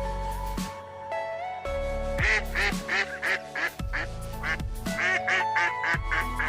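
Duck quacking in two quick runs of calls, about four a second, over background music with a steady beat.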